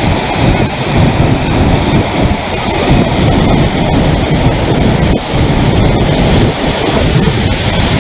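Loud, steady rush of floodwater pouring from an overflowing lake, with wind buffeting the microphone.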